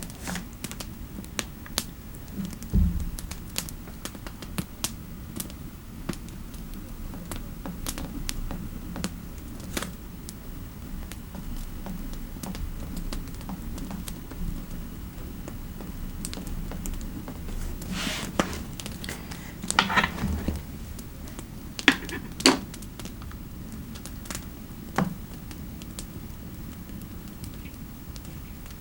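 Computer keyboard typing: scattered key clicks with short pauses, and a louder, busier run of keystrokes about two-thirds of the way through. A soft thump about three seconds in, over a steady low fireplace background.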